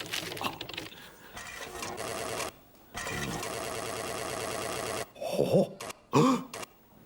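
A rapid, steady mechanical whirring clatter lasting about two seconds that cuts off suddenly, followed by two short vocal grunts.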